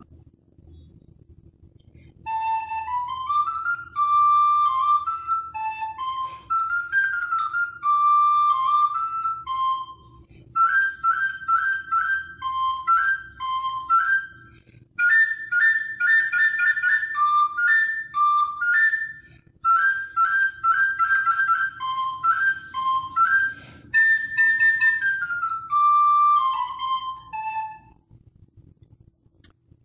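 Recorder playing a quick, high-pitched tune of short ornamented phrases with brief breaks between them, one of the little melodies written for teaching canaries to sing. It starts a couple of seconds in and stops shortly before the end.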